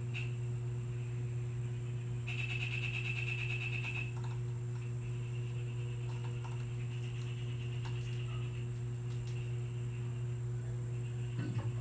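A steady low electrical hum throughout, with faint, high, rapid chattering from a small pet bird for a couple of seconds early on and weaker chirps later. There is a brief knock near the end.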